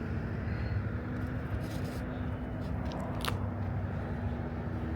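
Footsteps crunching on railroad ballast gravel, a few scattered crunches about a third and two thirds of the way in, over a steady low rumble of distant traffic.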